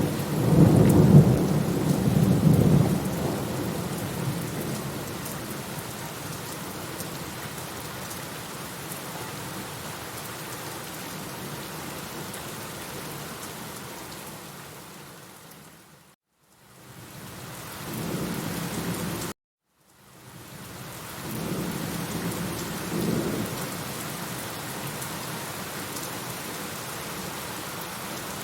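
Steady rain with rumbling thunder, the thunder loudest in the first few seconds. About halfway through, the sound fades to silence, then returns with more thunder, cuts out abruptly for a moment, and comes back as rain with further rumbles.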